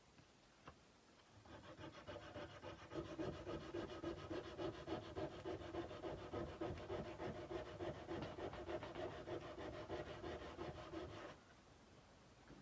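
Sandpaper worked back and forth by hand along a steel kukri blade in quick, even strokes. The strokes start about a second and a half in and stop abruptly about a second before the end.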